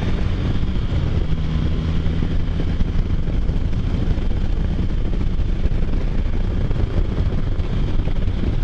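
Can-Am Spyder F3's three-cylinder engine running steadily at cruising speed on the road, mixed with wind rush on the microphone. The engine's hum is clearest in the first few seconds, then blends into the steady road and wind noise.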